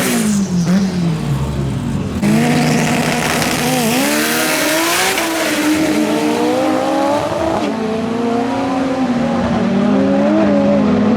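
Drag race car engine revving and accelerating hard, with tyre squeal. A loud surge of engine and tyre noise comes about two seconds in, and the engine pitch climbs and falls as it runs.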